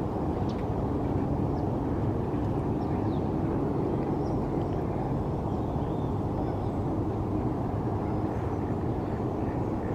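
Steady low rumble of distant city noise, traffic or aircraft, with a few faint, scattered bird chirps above it.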